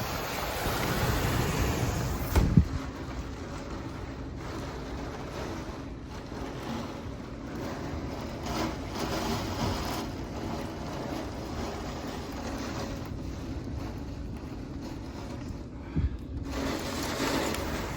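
Wind storm gusting in a rushing noise that swells and eases, buffeting the microphone with a sharp low thump about two and a half seconds in and again near the end.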